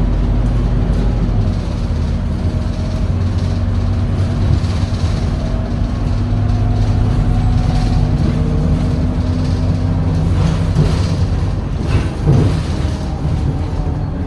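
Scania K230UB bus's diesel engine running steadily, a low drone with level humming tones that shift slightly about ten seconds in. A brief knock or rattle sounds about twelve seconds in.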